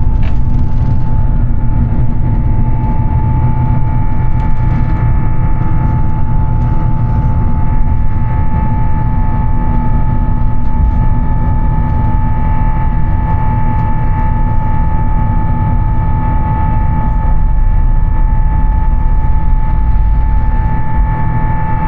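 Airbus A350-900 jet engines heard from inside the cabin: a loud, steady low rumble with a steady whine on top, holding constant.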